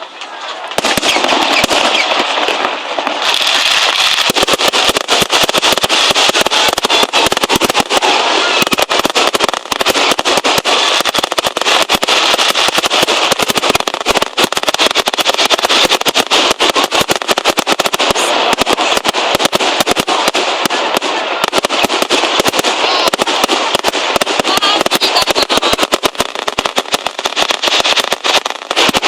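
Fireworks display at its height: a dense, continuous run of rapid bangs and crackles from exploding shells, starting about a second in.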